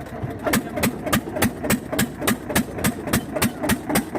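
Eicher 241 tractor's single-cylinder diesel engine idling with a slow, even thump-thump of firing strokes, about three to four beats a second and gaining slightly in pace.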